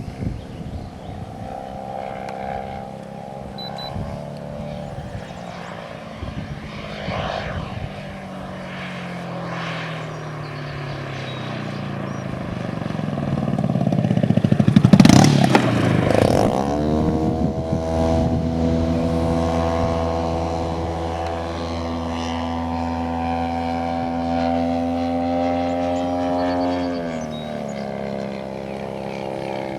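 Engine and propeller of a 1/3-scale radio-controlled Cessna 182 in flight, loudest as it passes close about fifteen seconds in. Afterwards the engine note rises and holds steady, then drops back near the end.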